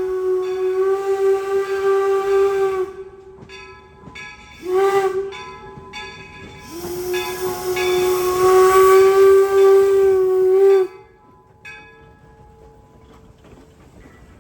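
Steam locomotive whistle blowing with a hiss of steam: a long blast, a short one about five seconds in, then another long blast that cuts off about eleven seconds in, the long-short-long end of a grade-crossing signal. Afterwards the train's low rumble is heard as it approaches.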